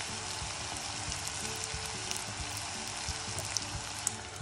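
Bitter gourd and potato strips frying in oil in a nonstick pan: a steady sizzling hiss with small crackles.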